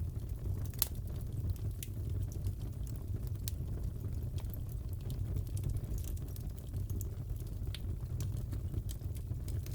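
Crackling fireplace: a steady low rumble of burning wood with scattered sharp pops and snaps, irregularly spaced.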